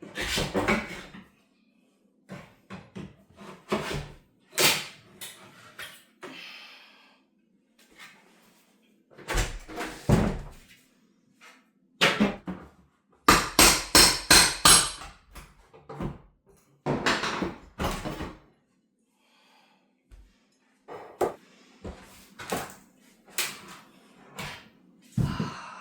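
Irregular knocks and bangs of wooden boards and demolition debris being handled and struck, with a quick run of several hard strikes about halfway through and a short scrape early on.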